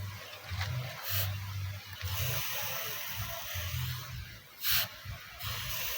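Red-hot spring-steel knife blade hissing as it is quenched, with two short, louder bursts of hiss about a second in and near the end.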